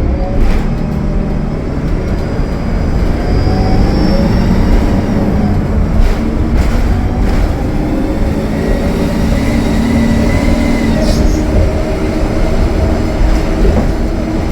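Cummins ISL9 diesel engine of a Gillig Low Floor transit bus running steadily at highway speed, heard inside the cabin over a constant road rumble. There is a faint high whine a few seconds in, and a few sharp rattles from the body.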